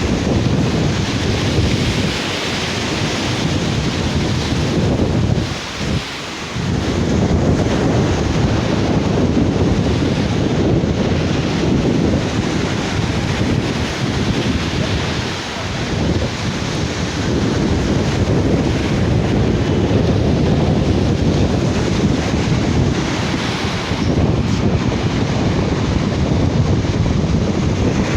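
Wind buffeting the microphone over the steady sound of sea surf breaking on a beach, with brief lulls about six and fifteen seconds in.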